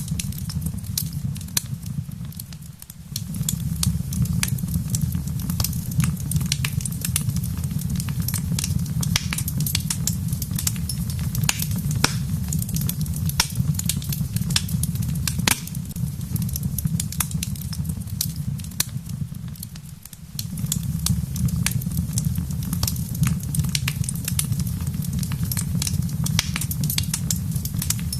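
Wood fire crackling in a fireplace: frequent sharp pops and snaps over a steady low rumble, which drops away briefly twice.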